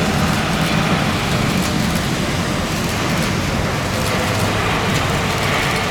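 Steady rush of heavy rain with a low engine rumble beneath it.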